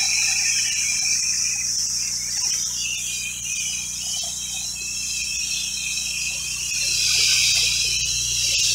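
Soft-wash spray wand spraying plain water at low pressure: a steady hiss of the spray over the steady low hum of the machine's pump.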